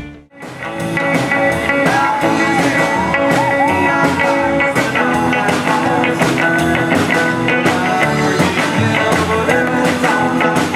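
Live rockabilly band music with electric guitar, cutting out for a moment at the very start and then playing on steadily.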